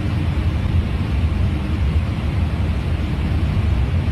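A steady low rumble with an even hiss above it and no clear pitch or events.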